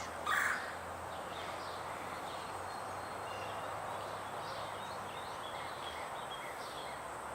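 Outdoor bird sounds: one short, loud squawk-like bird call about half a second in, then many faint small bird chirps over a steady background hiss.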